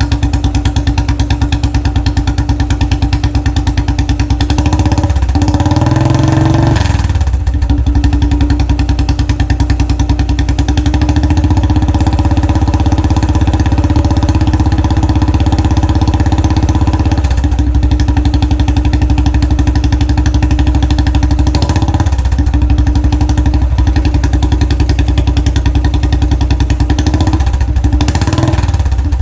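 Royal Enfield Classic 500 single-cylinder engine idling through its exhaust, with a quick blip of the throttle about six seconds in that rises and falls back to idle, and a few smaller throttle changes later on.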